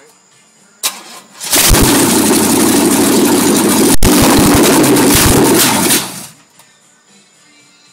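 Oldsmobile 350 V8 cold start: a sharp click, then the engine cranks and fires, running very loud and rough for about four and a half seconds before cutting off quickly.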